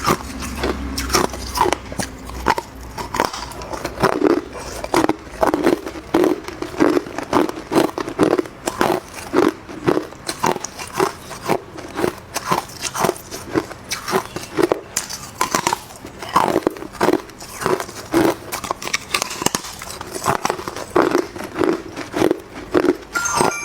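A person biting and chewing hard clear ice: a steady run of sharp crunches, about two a second.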